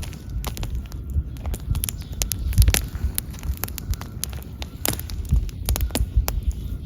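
Wood fire burning: irregular sharp crackles and pops over a low, fluttering rumble.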